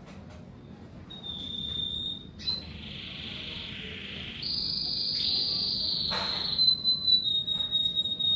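Canary singing: long, high, rolling trills that run one into the next, getting louder about halfway through and breaking into quicker, choppier notes near the end.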